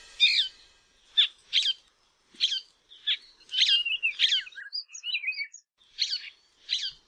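Birds chirping: a string of short, high calls, most sliding quickly downward, repeated about every half second with small gaps.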